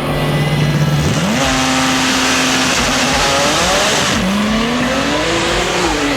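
Drag car engine revving: a held note that climbs about a second in and stays high, with a loud hiss of spinning tyres for about two and a half seconds. The engine note then drops and slowly climbs again.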